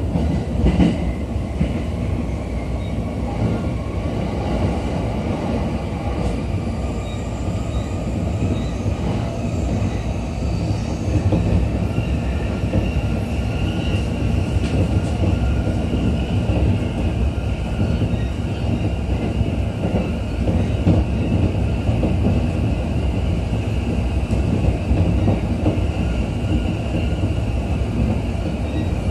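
JR East E231-series electric commuter train running between stations, heard inside the passenger car: a steady rumble of wheels on rail and car body, with a faint high whine that rises a little and then holds.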